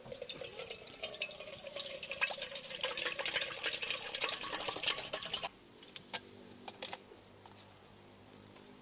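Water running and splashing, stopping suddenly about five and a half seconds in; a few faint clicks follow in the quiet.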